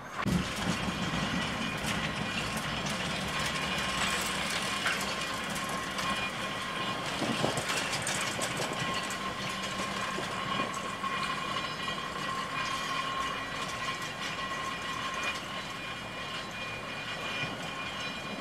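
Narrow-gauge electric locomotive hauling its carriages slowly along the track: wheels clicking over the rails, with a steady high whine that is strongest through the middle.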